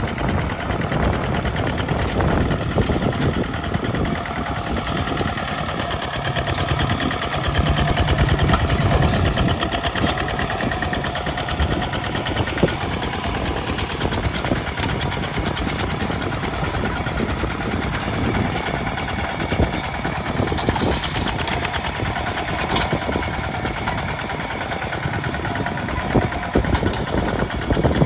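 Kubota RT single-cylinder diesel engine of a homemade walking-style tractor running steadily with a fast, even thudding while it tills a field.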